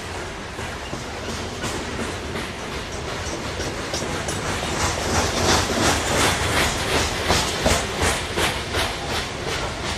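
Freight train of coke cars rolling past, steel wheels clicking over rail joints in a quick, even rhythm over a steady rumble. The clicking gets louder from about halfway through.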